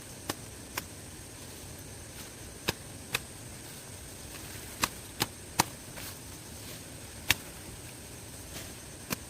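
A series of sharp knocks or taps, about nine in all at uneven intervals, over a steady background hiss.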